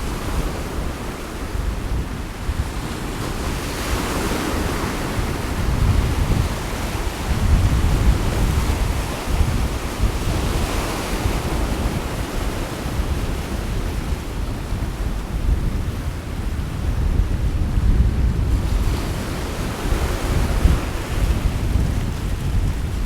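Sea waves washing onto the shore, swelling and receding three times: a few seconds in, near the middle and near the end. Wind gusts buffet the microphone throughout as a strong, uneven low rumble.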